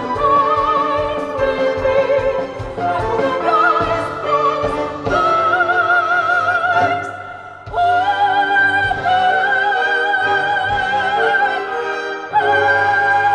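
Operatic singing voice with wide vibrato holding long notes over orchestral accompaniment. The music dips briefly about two thirds of the way through, then a new sustained phrase begins.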